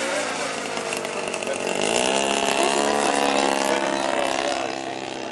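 The 106cc petrol engine of a 97-inch radio-controlled Gee Bee model aeroplane runs with a chainsaw-like buzz. Its pitch dips at the start, climbs again about two seconds in, then the sound fades away near the end.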